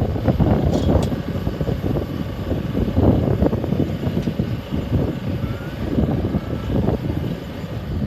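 Strong gusty wind buffeting the microphone, with the steady sound of an aircraft's engines under it.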